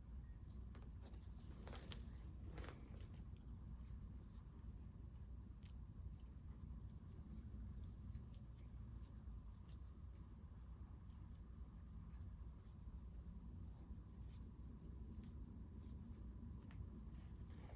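Knitting needles working yarn: faint, irregular small clicks and rubbing, with one sharper click about two seconds in, over a steady low hum.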